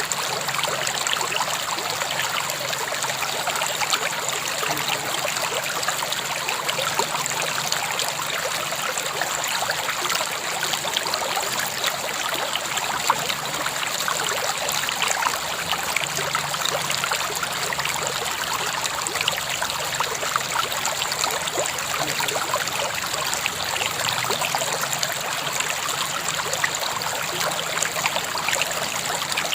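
River water flowing steadily over stones, a constant rush with fine splashing and trickling.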